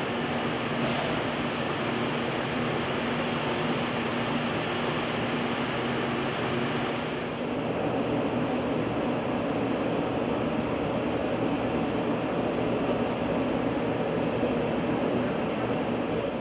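Quickmill Annihilator CNC machining center working a tube sheet: steady machine noise with a constant hum. About seven seconds in, the hum and the high hiss drop away and a lower rushing noise takes over.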